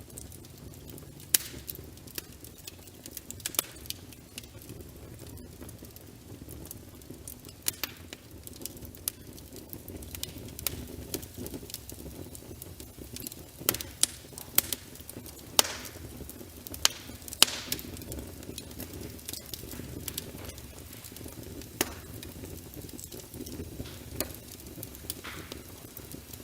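Wood fire burning in a fireplace: irregular sharp crackles and pops, busiest about halfway through, over a steady low rush of the flames.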